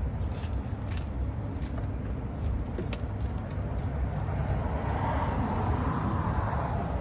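A passing vehicle, its noise swelling from about four seconds in and fading near the end, over a steady low rumble.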